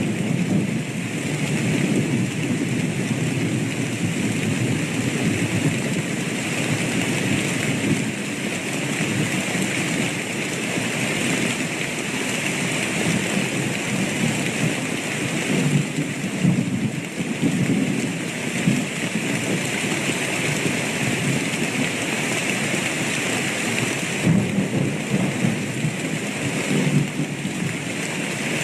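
Steady heavy rain with low thunder rumbling under it, swelling a little now and then but with no sharp cracks.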